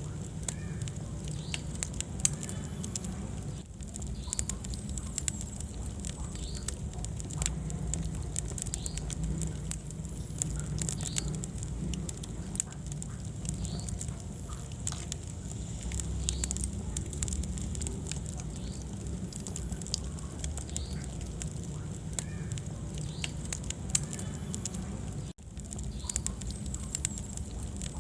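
Wood fire in a fireplace crackling, with frequent irregular pops over a steady low rumble of the flames. The sound cuts out for an instant near the end.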